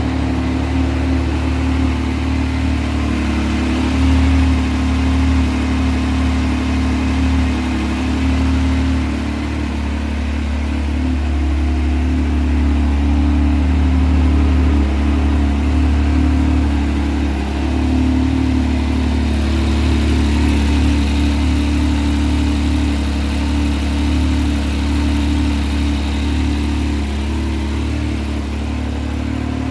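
Yamaha YXZ1000R side-by-side's three-cylinder engine running steadily at idle, with small swells in level.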